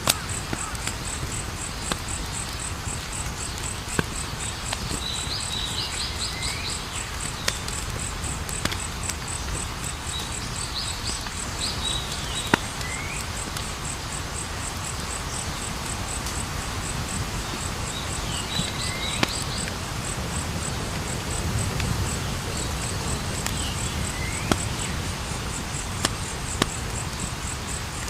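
Campfire burning with scattered sharp crackles and pops over a low steady rush. Crickets chirr steadily throughout, and a bird gives short chirping phrases every few seconds.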